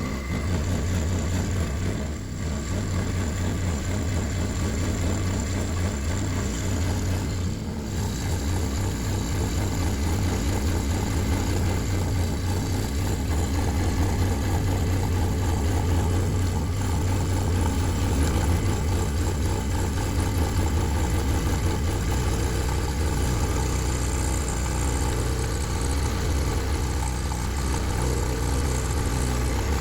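Benchtop milling machine running steadily, its spindle motor giving a constant low hum.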